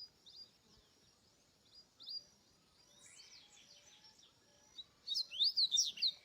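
Double-collared seedeater (coleiro) singing: a few soft scattered notes, then near the end a loud, fast phrase of rising and falling whistled notes.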